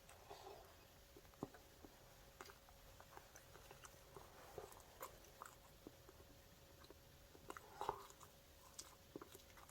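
A person chewing and biting into a chicken burger: faint mouth sounds with scattered small crunchy clicks, the loudest a bite about two seconds before the end.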